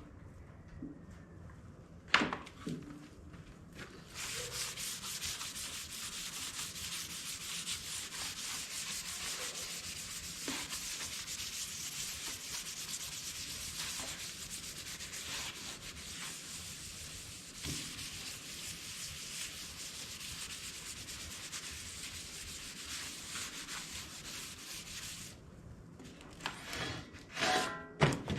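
Hand scrubbing of a metal part with an abrasive, a steady rubbing hiss of back-and-forth strokes for about twenty seconds, cleaning the surface so paint will take. A single sharp knock comes about two seconds in, and a few knocks and clatter near the end.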